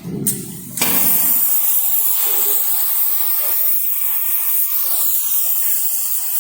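Oxy-fuel flame cutting torch on a CNC cutting table lighting and running its preheat flame: a loud steady gas hiss that starts suddenly about a second in.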